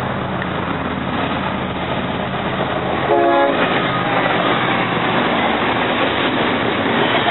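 A diesel freight train passing close by with a steady rumbling roar of wheels and cars, and a short horn blast about three seconds in.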